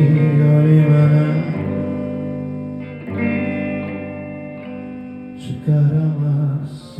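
Live rock band music led by guitar, playing sustained chords that change every few seconds, with brief cymbal-like splashes near the start and near the end.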